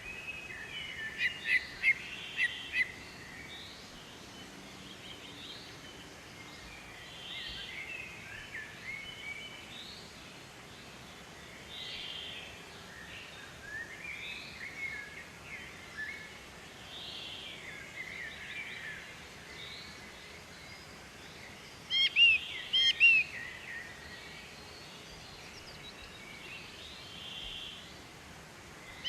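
Wild birds singing and calling over a faint steady background hiss: varied warbling phrases come and go, with louder runs of sharp repeated chirps near the start and again about two-thirds of the way through.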